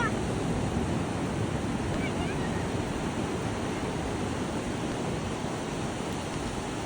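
Pacific Ocean surf washing onto the beach: a steady, unbroken rush of breaking waves.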